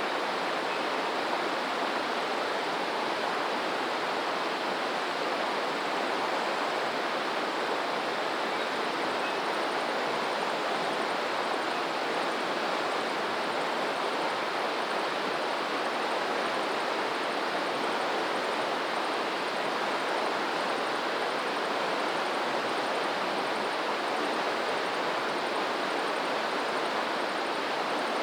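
Steady, unbroken rush of running water, such as a stream or small waterfall, with no rise and fall of waves.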